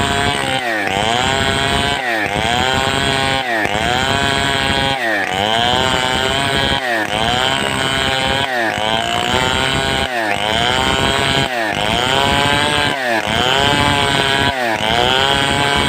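Large two-stroke Stihl 070-type chainsaw cutting wood with a rocking, swinging stroke: the engine pitch sags under load and climbs back about every second and a half, over and over.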